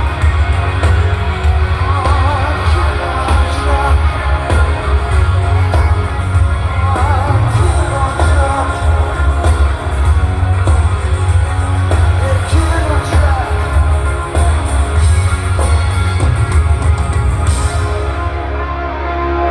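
Rock band playing live with a lead singer: heavy bass, drums and electric guitars under a wavering sung line. The cymbals drop out near the end.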